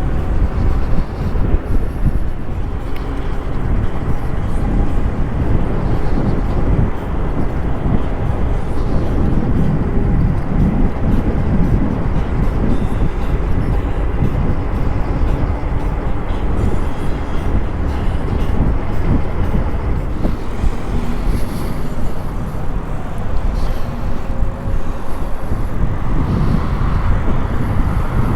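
Steady wind rumble on the microphone of a moving electric bike, mixed with road and tyre noise.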